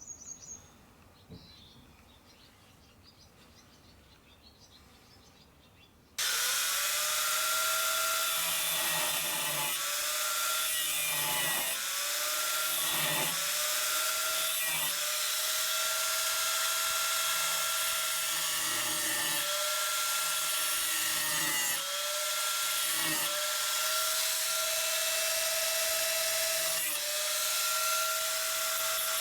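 Handheld power tool starting up about six seconds in and running at high speed with a steady whine. Its pitch sags briefly every second or two as it is pressed into the work. Before it starts there is only a faint bird chirp.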